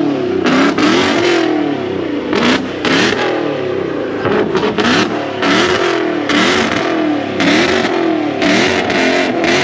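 A muscle car's V8 engine revved hard again and again in quick rising sweeps, with loud bursts of hiss between the sweeps.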